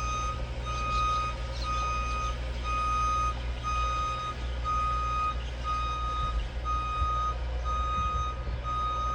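Vehicle reversing alarm beeping, a high steady tone about once a second, over the low rumble of the vehicle's engine.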